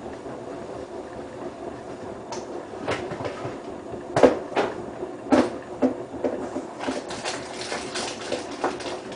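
Hotpoint WT960 washing machine drum tumbling a wet load of delicates: a steady motor hum with irregular knocks and sloshes as the load drops, busiest about halfway through.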